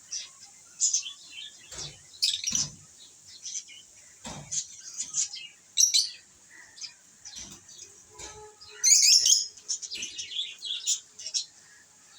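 Lovebirds chirping in many short, high-pitched bursts, with a louder flurry of chirps about nine seconds in. A few low thumps sound in the first half.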